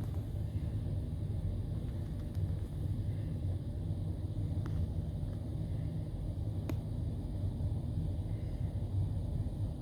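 A steady low rumble, with a couple of faint clicks a little past halfway.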